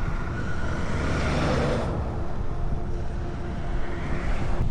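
Road and wind noise while riding an electric trike: a steady low rumble, with a rushing hiss that swells and fades about a second and a half in.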